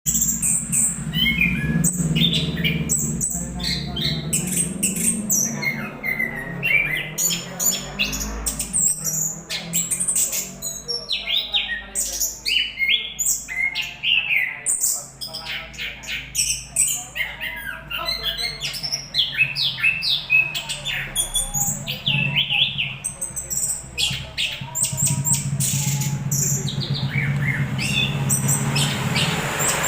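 A pet songbird singing a fast, varied run of short chirps and whistles, over a steady low hum.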